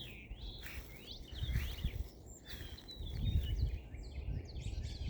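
Small birds chirping and twittering in short high calls, with two stretches of low rumble partway through.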